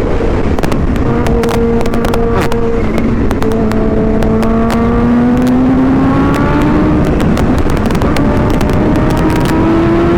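Supercharged Kawasaki Ninja H2 inline-four engine pulling under throttle through a Vandemon aftermarket exhaust, under heavy wind noise on the rider's mic. The engine note climbs slowly, falls away about seven seconds in, then climbs again near the end.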